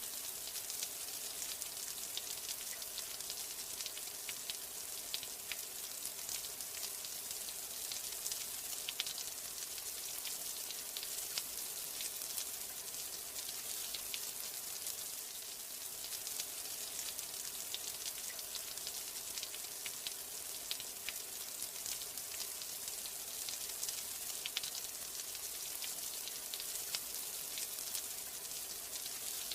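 Steady rain: a dense hiss of falling water sprinkled with many small, sharp drop ticks, at an even level throughout.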